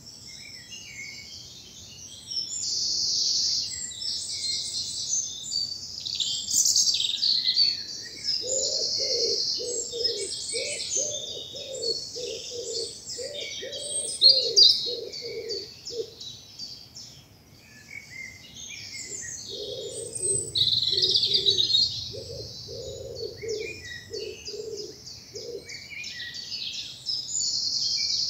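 Spring morning chorus of several woodland songbirds, their high-pitched songs overlapping without pause. Twice a lower bird call joins in, a run of evenly spaced notes about two a second, lasting several seconds each time.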